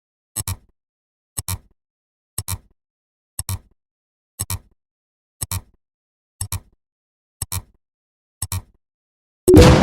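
Sound-effect track: a short, sharp double click once a second, nine times in a row, then near the end a sudden loud bang that trails off in a long fading rumble.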